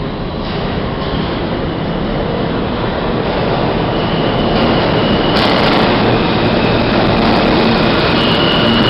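New York City subway train running through the tunnel, heard from inside the car: a steady rumbling roar that grows gradually louder. Thin high whining tones join it about halfway through.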